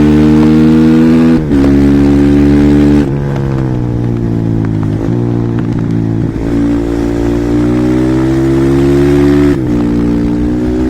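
Husqvarna SMR 450 supermoto's single-cylinder four-stroke engine pulling hard, its pitch climbing and dropping sharply at a gear change about a second and a half in. About three seconds in, the throttle eases and the engine goes quieter and lower. It then pulls up again, with another sharp drop near the end.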